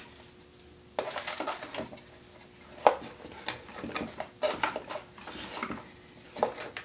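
Handling noises of a cord and small parts being stowed in an antique wire recorder's case: irregular light clicks, knocks and rustles, with one sharper click about three seconds in.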